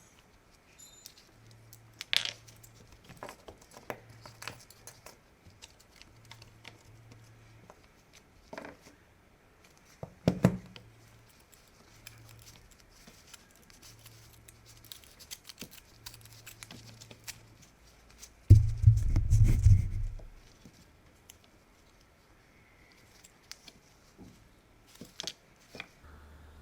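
Hand work on a bench: scattered clicks, taps and scrapes of small parts and tools being handled, with one loud low rumbling noise lasting about two seconds about two-thirds of the way through.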